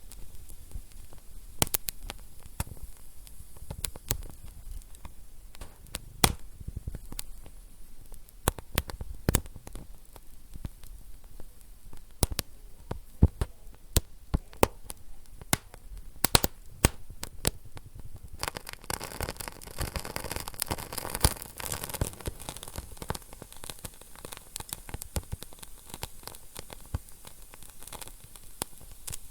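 Wood fire burning in a fireplace, crackling with irregular sharp pops over a low rumble. About two-thirds of the way through comes a few seconds of denser, hissing crackle.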